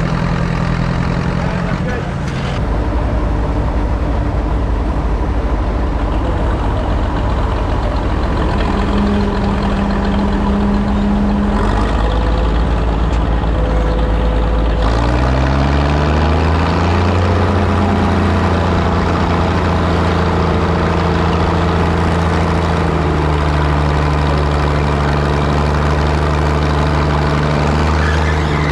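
Antique farm tractor engine running steadily, then revving up sharply about halfway through and holding at high revs, as on a pull against the weight sled.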